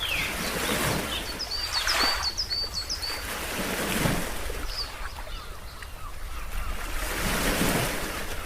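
Ocean waves surging in and falling back in three swells, with small birds chirping high above them, including a quick run of chirps in the first half.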